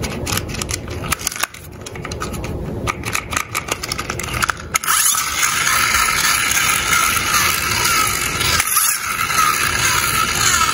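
Small diecast toy cars clicking and rattling for about the first five seconds, then a steady rolling scrape of their small wheels running down a slope, with a short break a little after eight seconds.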